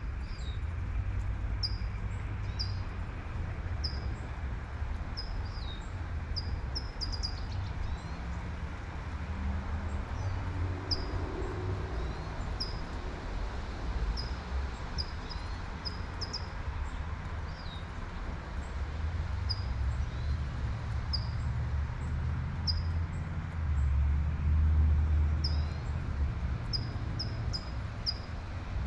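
Light rain hissing steadily under a low traffic rumble, with a bird giving short high chirps over and over, about one a second. The rumble swells about three-quarters of the way through, as of a car passing.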